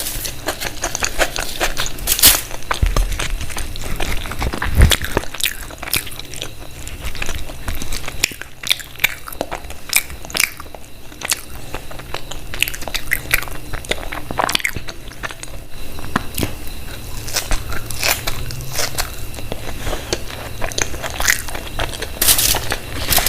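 Close-up sounds of a person eating: biting and chewing with crunches and wet mouth clicks, coming irregularly several times a second.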